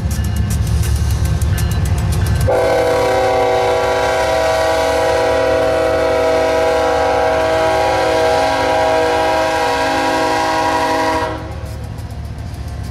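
A freight train's locomotive sounds one long multi-note air horn blast of about nine seconds, which cuts off sharply. Before and after it, the diesel rumbles and wheels clatter over the rail joints as the train passes.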